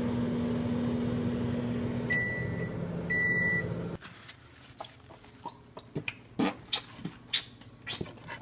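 Steady running hum inside a car, with two short high electronic beeps about a second apart. About four seconds in it gives way to scattered light clinks and knocks of dishes and utensils.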